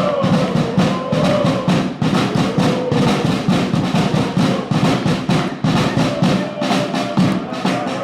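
Fans' drum beating a fast, even rhythm of about four strokes a second, with supporters chanting along.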